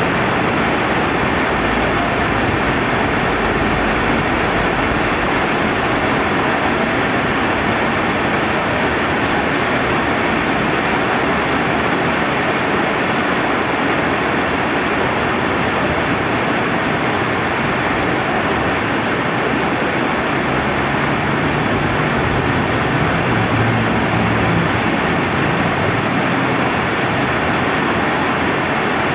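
Steady rain falling by a flowing river, an even, unbroken hiss.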